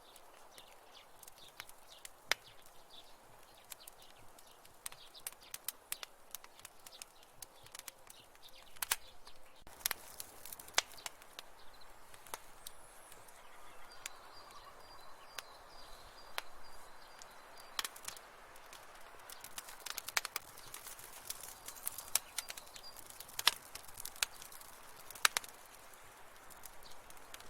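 Wood fire crackling in a fireplace: irregular sharp pops and snaps over a soft hiss, with a faint, thin, high whistle partway through.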